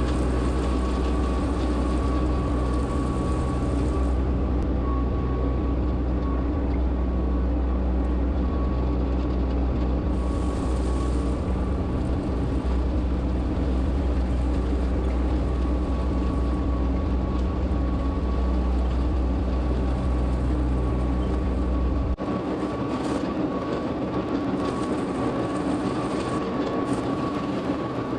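Solis H24 compact tractor's diesel engine running steadily under way, a deep rumble under a set of steady engine tones. About 22 seconds in, the deep rumble drops out suddenly while the engine tones carry on.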